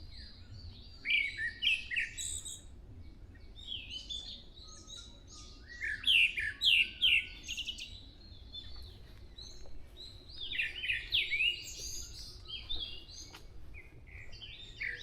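Dawn chorus of songbirds in a forest: bursts of rapid, sweeping high notes every few seconds, over a faint low rumble.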